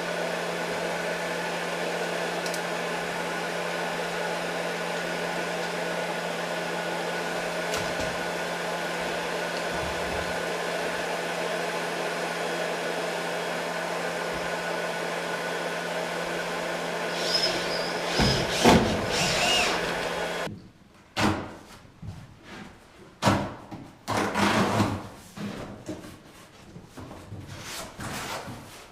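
Shop vacuum running steadily with a constant motor hum, shutting off about 20 seconds in. Irregular knocks and clatter follow.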